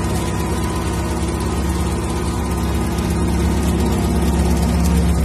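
Lada Niva off-road race car's engine idling steadily close by, with an even rapid pulse, getting a little louder near the end.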